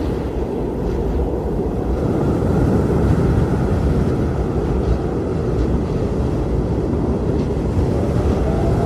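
Strong blizzard wind blowing steadily with a deep rumble; near the end a whistling howl rises over it.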